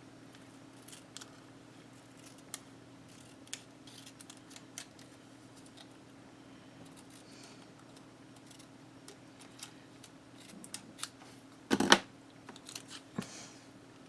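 Scissors snipping and trimming washi tape in scattered short cuts and clicks, with one louder knock about twelve seconds in, over a faint steady hum.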